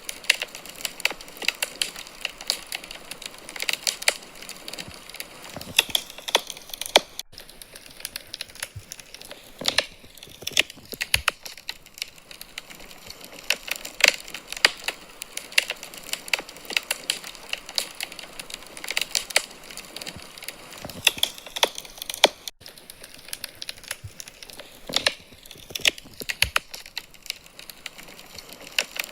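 Wood fire burning in a fireplace, crackling steadily with many small irregular pops and snaps.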